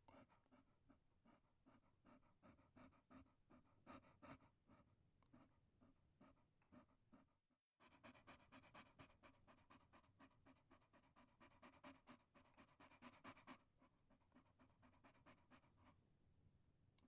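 Chihuahua panting faintly in a quick, steady rhythm of short breaths, broken by a brief dropout just past the middle.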